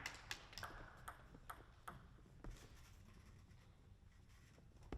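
Celluloid-type plastic table tennis ball clicking off rackets and the table in a rally, a string of light, sharp clicks a few tenths of a second apart that thin out after about two and a half seconds.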